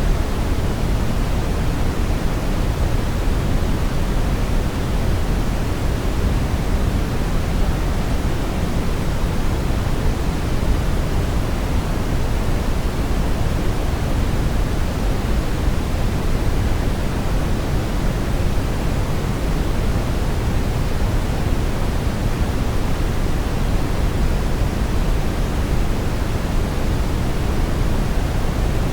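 Brown noise: steady synthetic noise weighted heavily toward the deep low end, with no changes or events.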